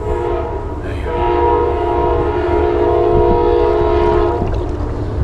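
Train horn sounding a chord of several tones: a short blast at the start, then a long blast from about a second in that cuts off near the end, over a low rumble.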